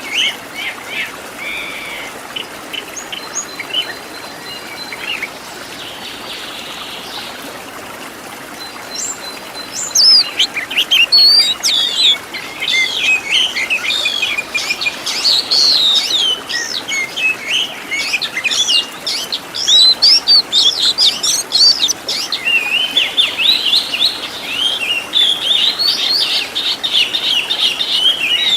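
Oriental magpie-robin (kacer) singing a varied song of quick whistles, chirps and trills. It is sparse and softer for the first several seconds, then becomes a dense, fast run of notes from about ten seconds in.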